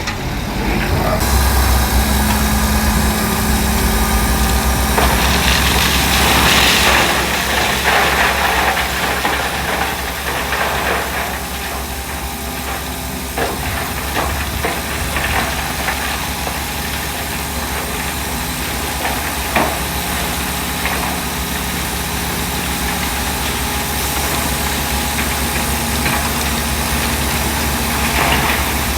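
Heavy diesel earthmoving machinery running, its engine hum swelling in about a second in and then holding steady, with a couple of sharp clanks along the way.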